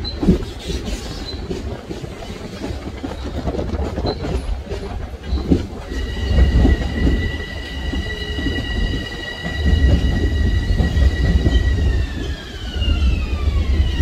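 Kawasaki M9 electric multiple-unit train passing close by, with a low rumble and wheels clicking over the rail joints. About six seconds in, a high whine from the passing cars sets in, holds steady, then slides down in pitch near the end.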